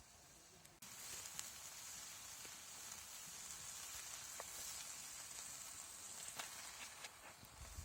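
Food frying in a pan, a steady sizzle with scattered crackles and pops. The sizzle starts abruptly just under a second in.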